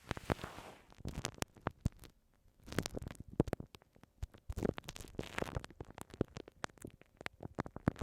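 A brief soft brushing hiss, then a glue stick dabbed and rubbed on a binaural microphone: sticky clicks and crackles in uneven bursts.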